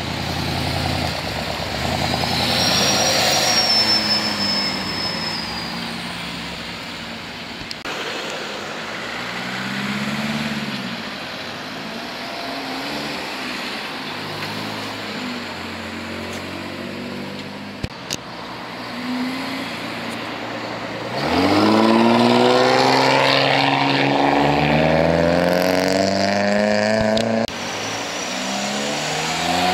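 Modified cars pulling away one after another, engines running and revving at low speed. About two-thirds of the way through, one car accelerates hard, its engine pitch climbing steeply for several seconds, the loudest part.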